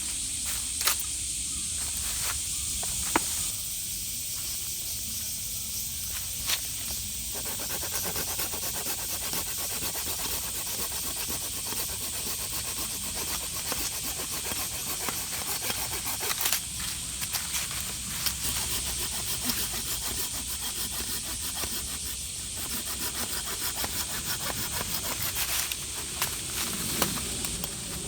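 Outdoor ambience with a steady high hiss and a few scattered sharp clicks and knocks.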